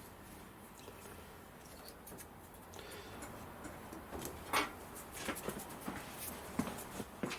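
Scattered light clicks and knocks of small tools and parts being handled on a workbench, starting about halfway through, with one louder knock; before that only a faint steady room hum.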